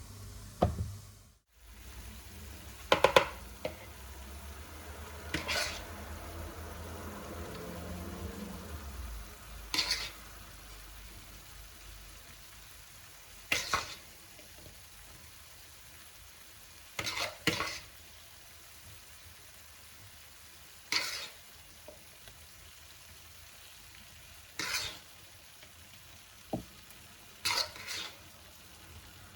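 Food being stirred in a frying pan: a utensil scrapes and clinks against the pan about every three to four seconds, sometimes twice in quick succession, over a faint sizzle. A low hum underneath fades out about nine seconds in.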